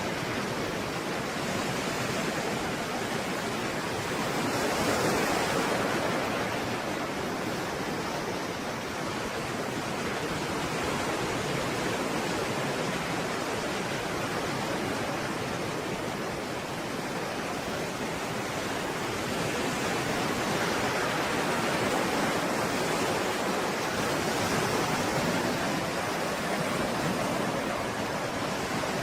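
Stormy sea surf: a dense, continuous wash of breaking waves that swells and eases slowly every several seconds.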